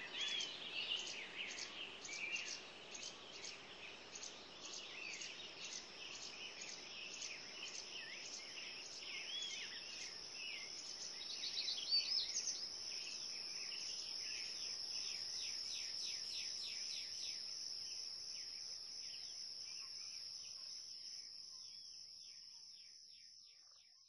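Birds chirping and trilling in quick repeated high notes. About halfway through a steady high-pitched tone joins in, and the whole sound fades out near the end.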